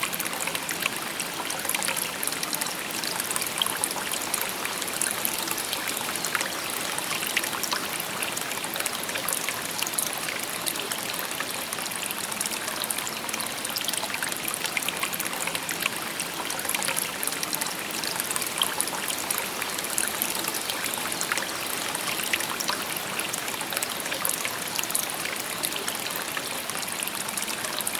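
Shallow river babbling steadily over stones, a continuous bright rush of water with constant small splashes and trickles.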